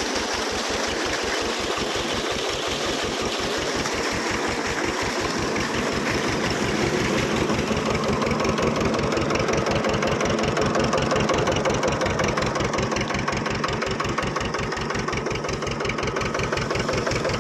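Tractor diesel engine running steadily with a rapid, even beat, driving a PTO water pump as it pumps water.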